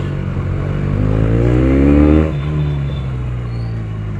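Benelli TNT 300's parallel-twin engine with an aftermarket exhaust, running while riding, revving up with a rising pitch from about a second in and dropping back suddenly a little past halfway.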